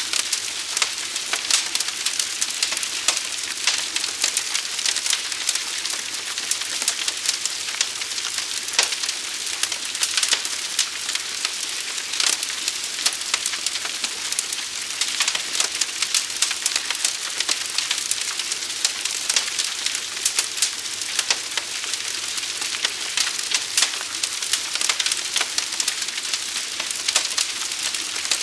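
Forest fire burning: a dense, steady crackle of small pops over a bright hiss.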